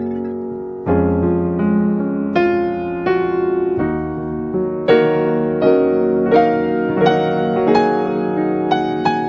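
Background music: gentle piano playing a melody of struck notes over sustained chords.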